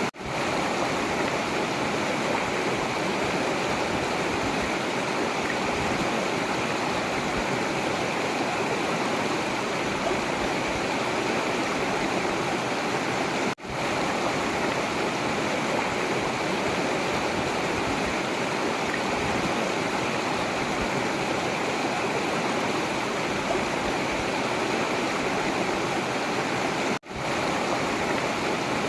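A forest river flowing: a steady, continuous rush of water, which cuts out for an instant twice, about halfway through and near the end.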